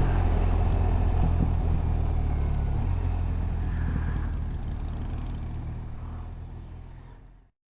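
Motorcycle engine running while riding, with road and wind noise; the sound fades away over the last few seconds and cuts to silence near the end.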